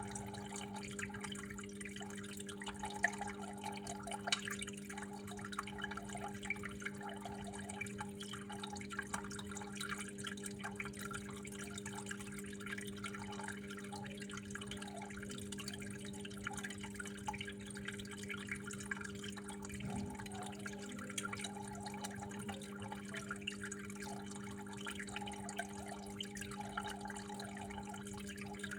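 Water trickling and dripping steadily, with many small irregular splashes, over a steady low hum.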